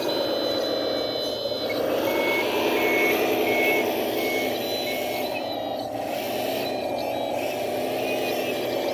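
Heavy-equipment engine running, with a backup alarm beeping steadily for a few seconds as a machine reverses.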